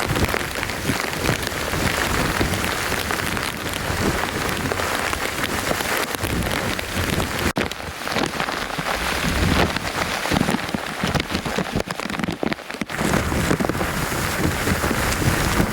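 Heavy rain pouring down: a dense, steady hiss of rain hitting surfaces, with brief dips about seven and a half seconds in and again near the end.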